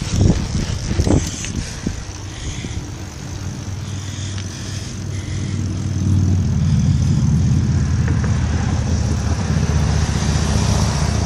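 Motor traffic on a busy road passing close by, a low engine and tyre rumble that swells about six seconds in and stays loud. A few sharp knocks in the first two seconds.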